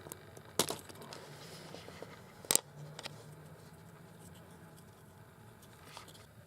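Small handling noise: two sharp clicks, about half a second in and two and a half seconds in, with lighter ticks and faint scraping between.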